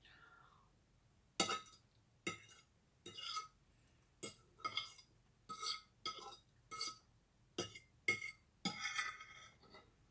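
Cutlery clinking and scraping against a plate about a dozen times at irregular intervals, each clink ringing briefly.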